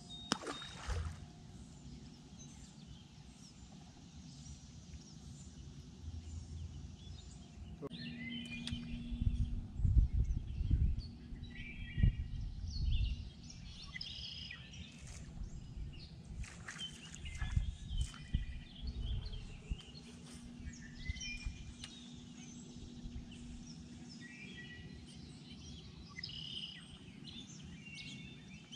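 Birds chirping and calling from the surrounding trees and reeds, over a low outdoor background with a few short low rumbles and a low hum that comes and goes.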